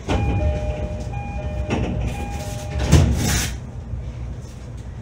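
E531 series electric train running, heard from inside the car. The running noise turns suddenly louder, with short steady tones sounding on and off for about three seconds. Then comes a loud rushing burst about three seconds in, after which it settles back to a steady rumble.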